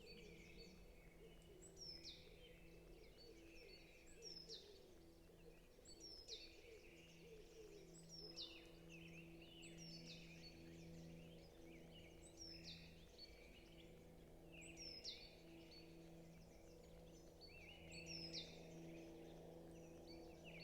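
Faint forest birdsong: one bird repeats a short, high phrase about every two seconds while others chirp around it. A steady low hum runs underneath.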